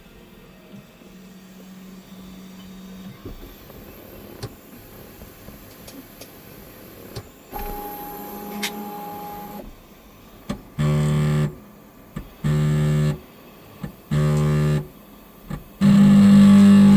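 Anycubic Kobra 3 Max 3D printer making a grinding noise. After a faint steady hum there is a louder stretch about eight seconds in, then four loud grinding bursts of about a second each, roughly one and a half seconds apart, the last running longer.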